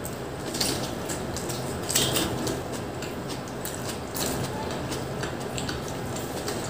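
Close-up eating sounds of people chewing pizza: irregular wet mouth smacks and clicks, over a steady low hum.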